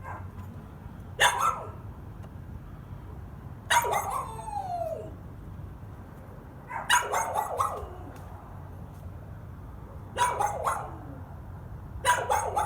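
A dog barking again and again, in bouts about every three seconds: single barks and quick runs of several, one drawn out into a falling whine. A steady low hum lies underneath.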